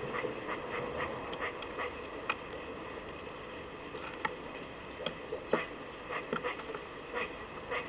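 Irregular small clicks and taps from a squirrel and birds feeding at a garden nut-and-seed feeder, with two sharper knocks a little over two seconds in and at about five and a half seconds.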